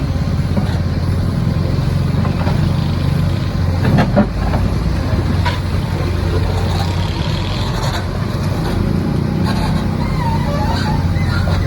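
Excavator's diesel engine running steadily, with a few short knocks, the loudest about four seconds in.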